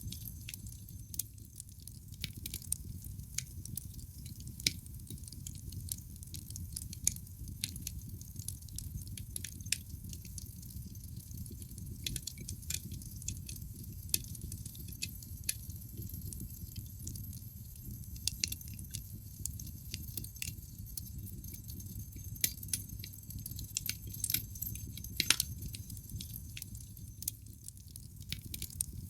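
Wood logs burning in a fireplace, crackling: irregular sharp pops and snaps over a steady low rumble of the fire.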